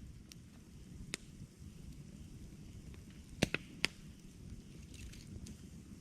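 Campfire crackling: a low steady rumble of burning wood with scattered sharp pops. The loudest is a quick run of three pops about three and a half seconds in.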